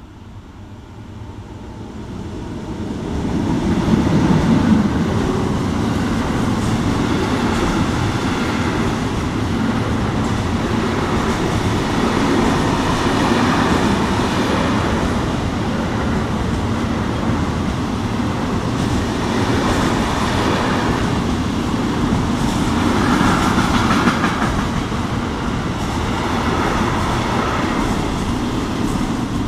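Electric-hauled container freight train passing close by. Its noise swells as the locomotive goes by about four seconds in, then the wagons keep up a steady rumble, their wheels clattering on the rails.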